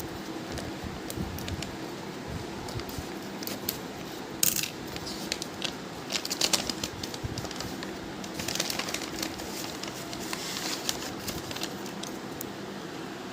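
Homemade blind bag being opened by hand: crinkling and rustling in bursts with small sharp clicks. The loudest bursts come about four seconds in and again between six and seven seconds, over a steady low hum.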